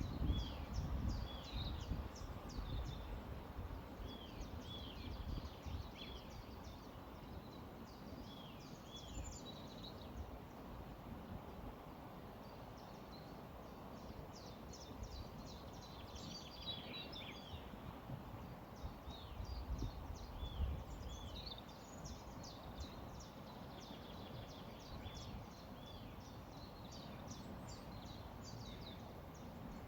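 Small songbirds chirping and twittering, with many quick high notes and repeated short falling whistles, over a steady low rush of flowing river water.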